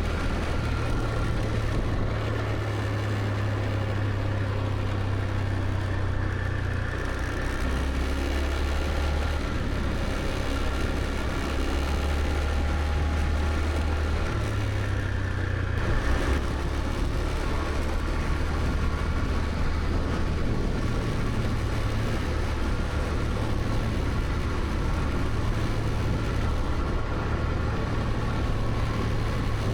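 Motor scooter engine running on the move, its low engine note stepping up and down several times with the throttle, over steady road and wind noise.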